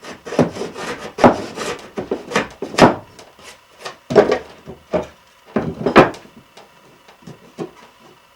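Hand plane taking short, quick strokes along an oak repair piece, trimming it for a tight fit; about a dozen strokes, trailing off after about six seconds.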